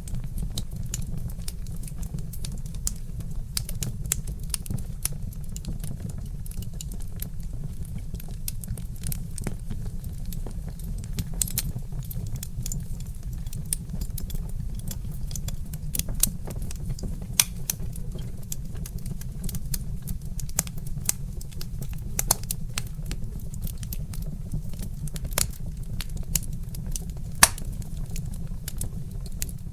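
Wood fire crackling: many irregular sharp pops and snaps from burning logs over a steady low rumble, with two louder pops, one near the middle and one near the end.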